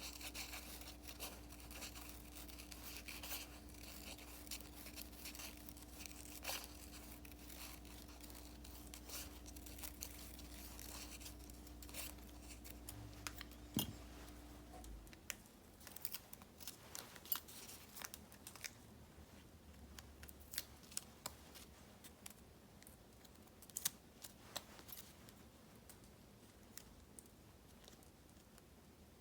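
Paper-crafting handling sounds for diary decorating: scissors snipping and paper or sticker sheets rustling and tearing, with scattered light taps and clicks. A faint steady hum stops about halfway.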